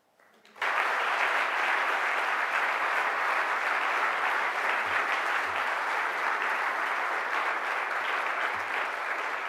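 Audience applauding: steady clapping that starts abruptly about half a second in and holds, easing slightly near the end.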